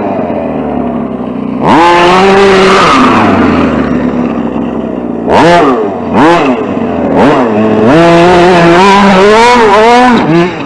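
RC short course truck's motor revving in repeated throttle bursts, its whine sweeping up in pitch with each punch. It settles into a longer run at speed from about 8 seconds in, over the noise of tyres on dirt.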